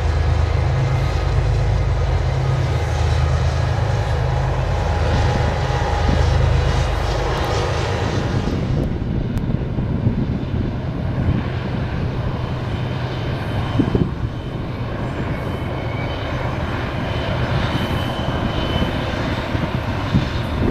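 Diesel freight locomotives passing with a steady low engine drone. About 7 seconds in, the engine drone drops away and an even rumble of rolling freight cars takes over.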